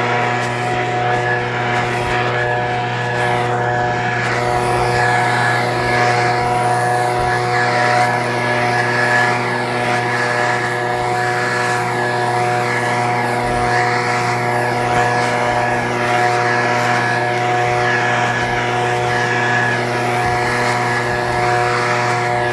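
Echo PB-2620 handheld leaf blower's small two-stroke engine running at a steady, unchanging speed, with the rush of its fan.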